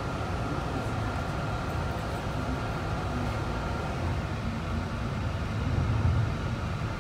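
Interior running noise of a Long Island Rail Road M3 electric railcar under way: a steady rumble of wheels on track, with a faint steady high tone above it.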